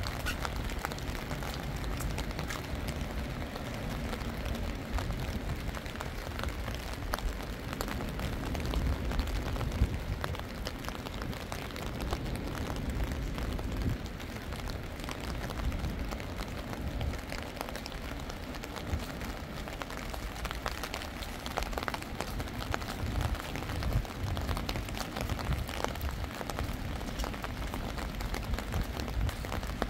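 Steady rain, a dense scatter of small drop ticks over an even hiss, with a low rumble underneath.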